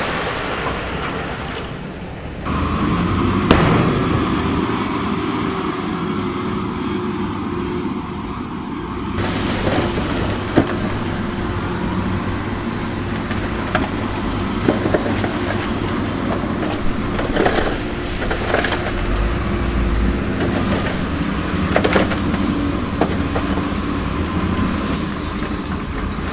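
Diesel engine of heavy earthmoving machinery running under load, with scattered sharp knocks and clanks through it. The sound changes abruptly twice in the first nine seconds.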